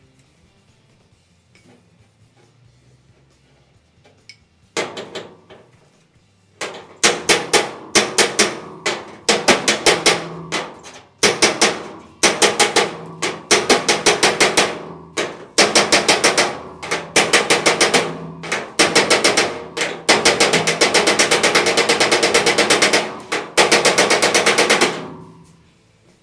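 Hammer blows on the truck's sheet-steel box side, in quick bursts of rapid strikes and then a longer unbroken run near the end, as a low spot in the panel is worked flat.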